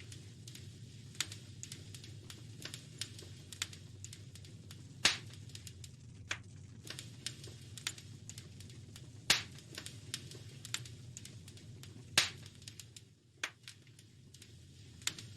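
Wood fire crackling in a fireplace: irregular sharp pops and snaps, three of them much louder and a few seconds apart, over a steady low rumble.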